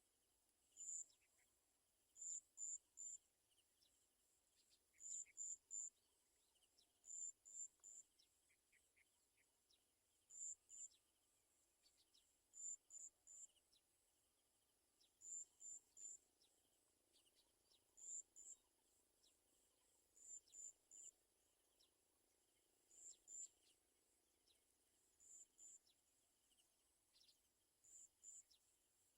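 Short, very high-pitched chirps in quick groups of two or three, repeating about every two and a half seconds, over faint background noise.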